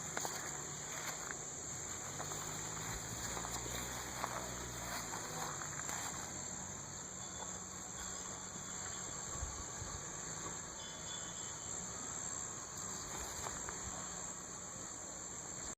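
The small four-cylinder side-valve engine of a 1934 American Austin idling low and steady, a little louder for a few seconds early on. A steady high-pitched hiss runs over it.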